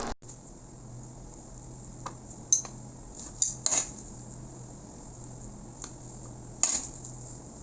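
A handful of short metal clinks and taps, about six, from a utensil against the pan and serving bowl as the cooked glass noodles are dished out, over a faint steady low hum.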